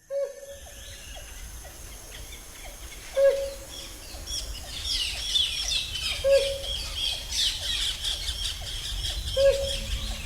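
Rainforest birds calling: a short, loud call with a falling tail repeats about every three seconds, four times in all, over a thickening chorus of higher, faster chirps.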